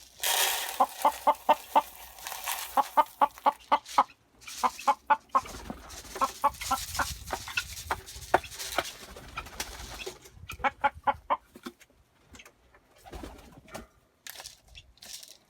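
Backyard chickens and other fowl calling in quick runs of short clucks, several a second, with a rushing noise over the first few seconds.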